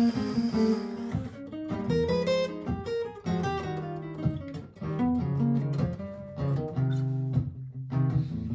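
Martin GPCPA4 acoustic guitar playing an improvised line of plucked notes over a looped backing of sustained low notes and chords from a looper pedal.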